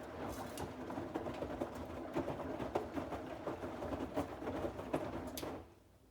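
Bosch WAX32GH4GB washing machine drum turning, the wet laundry tumbling with many irregular small knocks, during the detergent streak-prevention stage of a 30°C dark wash. The drum stops near the end.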